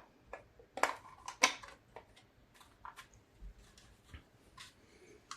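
Hard plastic model-kit hull parts clicking and knocking faintly as they are handled and pressed together in a dry fit, in a dozen or so separate taps, the loudest about a second and a second and a half in.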